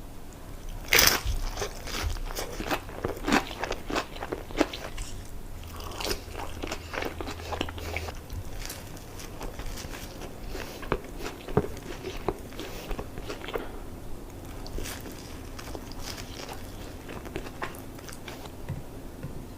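Close-miked biting and chewing of Raising Cane's fried food: crisp crunches, the loudest about a second in, thinning to softer chewing over the second half.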